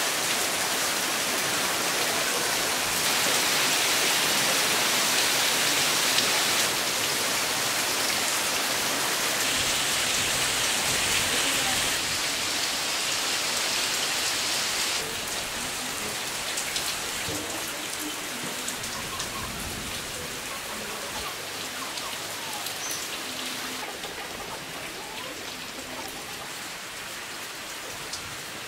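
Steady rain falling on a clay-tile roof, with water streaming off the eaves. It grows quieter over the second half.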